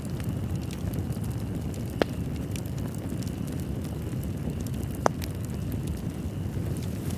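Wood fire burning in a fireplace: a steady low rumble of flames with fine crackling, and two sharp pops, about two and five seconds in.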